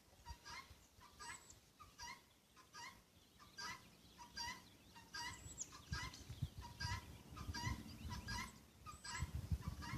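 Birds, likely poultry, calling in short repeated notes about twice a second, with low thumps and rumbles in the second half.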